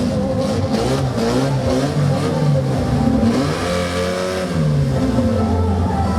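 Car engine at a drag strip revving, its pitch rising and falling over and over.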